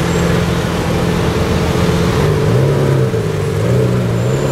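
Lamborghini Centenario's naturally aspirated V12 idling, its pitch wavering slightly up and down from about halfway through.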